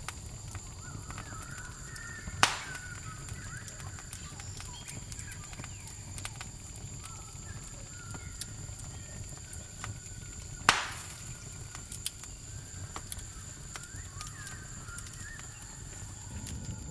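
Campfire crackling, with two sharp loud pops of burning wood about two and a half seconds in and near eleven seconds. A steady high drone of crickets runs under it, with faint animal calls here and there.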